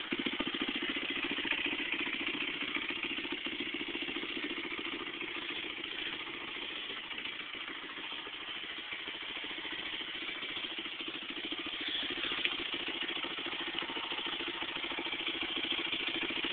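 Honda CRF100F dirt bike's small air-cooled four-stroke single idling steadily through an FMF Powercore 4 exhaust.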